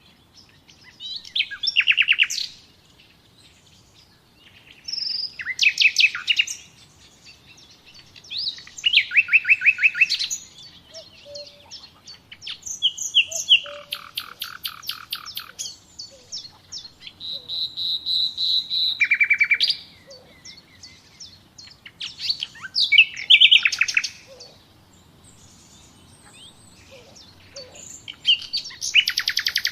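A songbird singing, repeating short phrases of quick, high, trilled notes about every four seconds, with quiet gaps in between.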